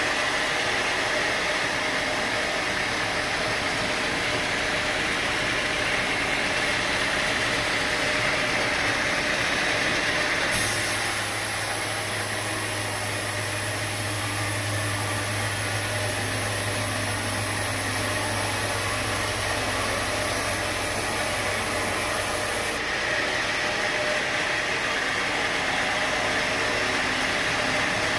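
Sawmill machinery running steadily, a continuous engine-like drone with hiss. About ten seconds in the sound changes abruptly to a deeper hum with more hiss, and it switches back abruptly about twelve seconds later.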